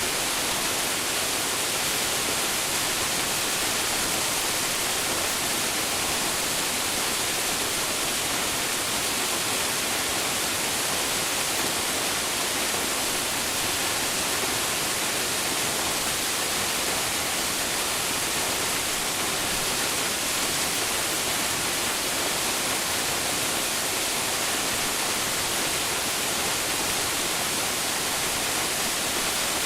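Waterfall pouring steadily: an even, unbroken rush of falling water, strongest in the high hiss.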